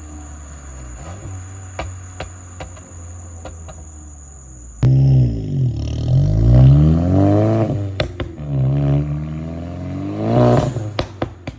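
VW Mk8 GTI's turbocharged 2.0-litre four-cylinder, fitted with a catless downpipe and XForce valved catback, idling steadily. About five seconds in it is revved hard three or four times, the pitch climbing and dropping each time, with sharp exhaust cracks as the revs fall.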